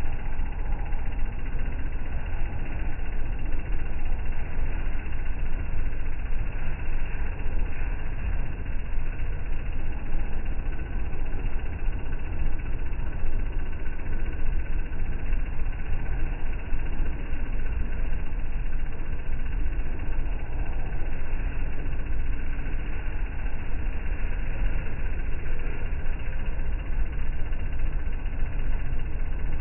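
Washing machine running: a steady, low mechanical noise with no change throughout.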